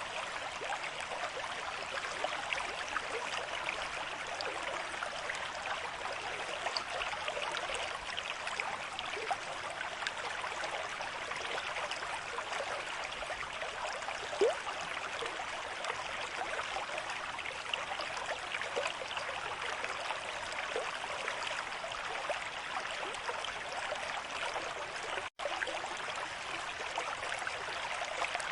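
River stream with moderate flow, water running steadily with a constant dense splashing. It drops out for an instant about 25 seconds in.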